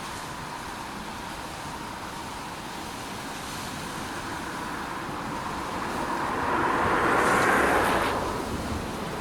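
A road vehicle passing by, swelling to its loudest about seven and a half seconds in and then falling away, over a steady rushing background noise.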